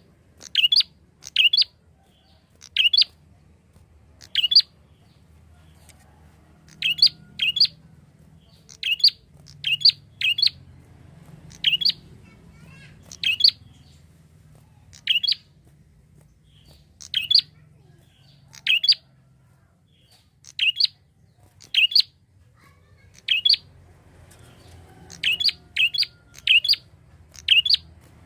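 Prinia (prenjak) calling loudly with short, sharp chirps, singly or in quick runs of two or three, every second or two.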